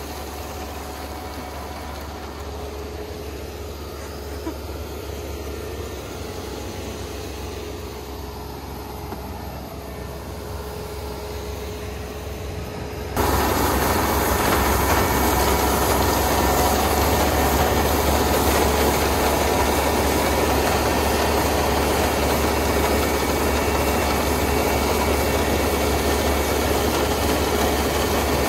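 Kubota ER470 combine harvester's diesel engine running steadily with a low hum and the noise of the working machine. About halfway through the sound suddenly becomes much louder and stays that way.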